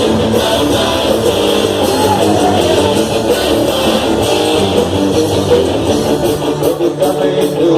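Band music led by strummed guitars over bass, with no singing.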